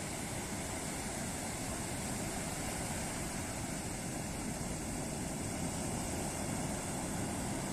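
Ocean surf washing and breaking on a beach, a steady even noise with no single wave standing out.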